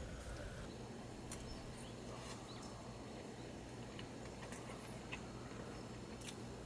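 Quiet ambience with a few faint, scattered clicks.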